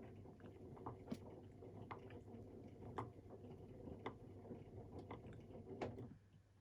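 AEG Protex Plus washing machine drum turning slowly, with a soft click about once a second; the motor sound stops abruptly about six seconds in, leaving only a faint hum.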